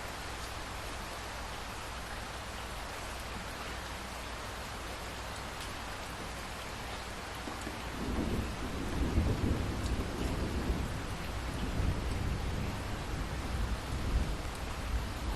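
Steady rain falling, with a low rolling rumble of thunder that builds about halfway through and carries on, swelling and easing, to the end.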